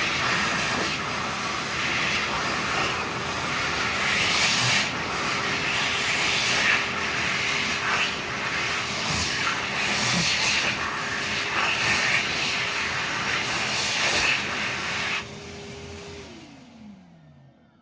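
High-speed electric hand dryer running with a loud rush of air over a steady motor whine. About fifteen seconds in the air cuts off and the motor winds down, its pitch falling over about a second.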